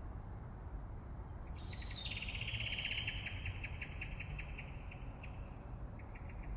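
A bird calling: a high sliding note about a second and a half in, then a rapid trill of about seven pulses a second that fades away, with a brief repeat near the end. A steady low rumble sits underneath.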